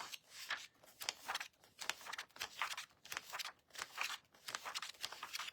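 Paper pages of a printed catalog being leafed through and handled: a run of short, irregular rustles and crinkles.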